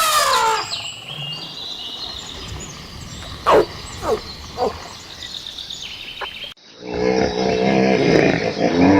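A loud animal call with many overtones dies away right at the start, followed by a few quick chirps. After a sudden cut, turkeys gobble with a rapid quavering rattle through the last couple of seconds.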